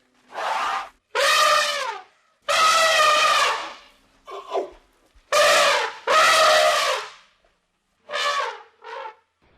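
An animal calling loudly over and over: about eight pitched calls, each well under a second to about a second long, separated by short pauses, the last two shorter and quieter.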